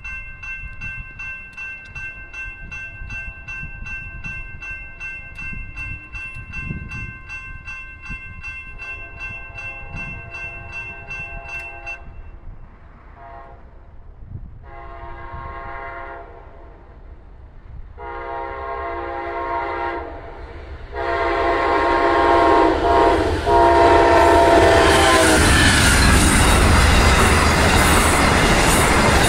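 A grade-crossing bell dings about two and a half times a second for the first twelve seconds. Then an Amtrak GE P42DC locomotive horn sounds several long blasts, growing louder as the train nears. From about 21 seconds in, the passenger train passes through the crossing at speed with a loud rush and clatter of wheels on rail.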